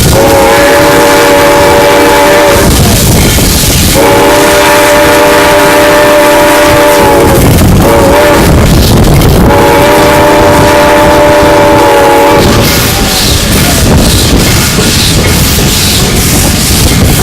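Steam locomotive whistle blowing a chord of several tones in a long, long, short, long pattern, the standard grade-crossing signal. Under it is the steady noise of the running steam locomotive.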